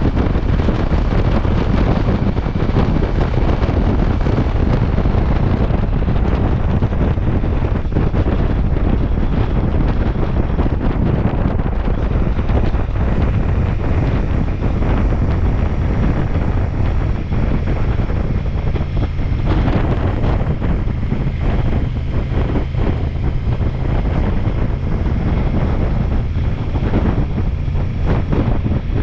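Wind buffeting the microphone at riding speed on a Ducati Multistrada V4 S, with the motorcycle's V4 engine running steadily underneath.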